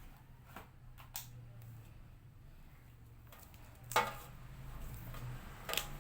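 A few light clicks and two sharp knocks, the louder about four seconds in and another near the end, over a steady low hum.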